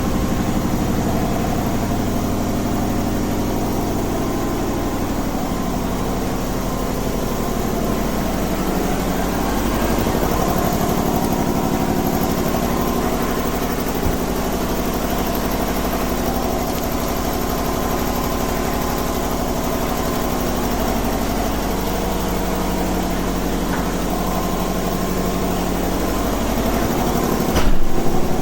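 Truck engine idling steadily, its pitch drifting slightly up and down, with one sharp knock near the end.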